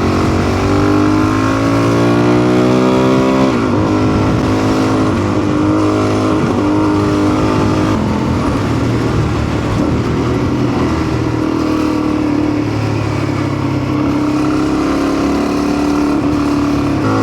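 Adventure motorcycle engine under way: it revs up for a few seconds, drops in pitch as it shifts up a gear, then runs at a fairly steady speed with small easing-offs of the throttle, over road and wind noise.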